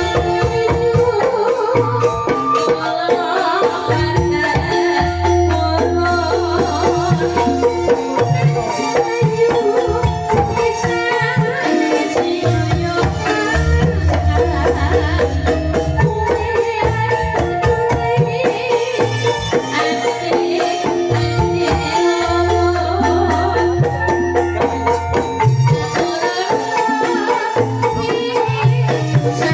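Calung Banyumasan ensemble playing: bamboo xylophones striking quick, repeated melodic notes over a hand-drum rhythm, with long deep bass notes coming in and out every few seconds.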